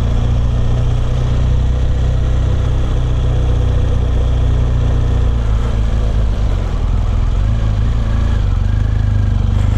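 Motorcycle engine running steadily at low revs, its even, deep note unchanging.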